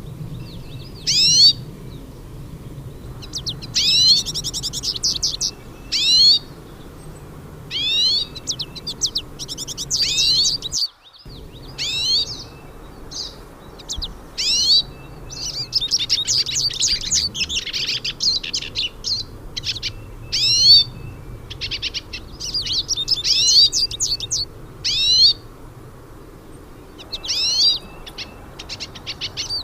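Hooded siskins singing: short, bright phrases of quick sweeping notes repeat every couple of seconds, with some longer twittering runs. The sound drops out briefly about eleven seconds in.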